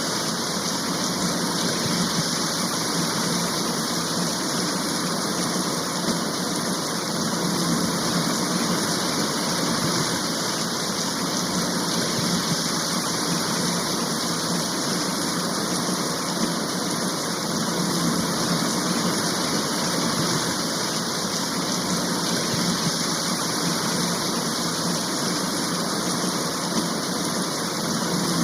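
Steady rain shower, an even, unbroken hiss of a downpour with no single drops, thunder or other events standing out.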